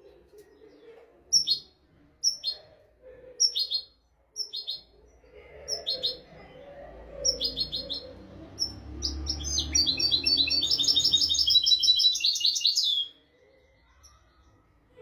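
European goldfinch singing: a string of short, bright single notes about one a second, then a fast, continuous trill for about four seconds that stops suddenly, over a low background rumble.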